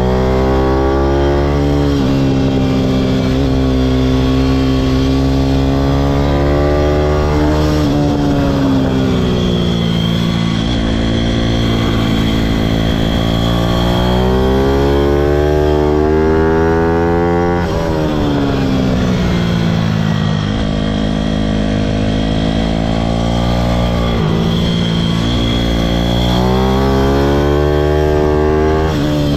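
Pitom pit bike's single-cylinder four-stroke engine running hard on track, its pitch climbing and falling several times as it accelerates and backs off, with sudden drops in pitch at gear changes.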